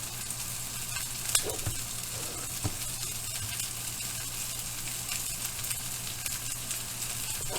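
Burger patties frying in bacon fat in a pan, a steady sizzle, with a couple of light knocks about one and a half and two and a half seconds in.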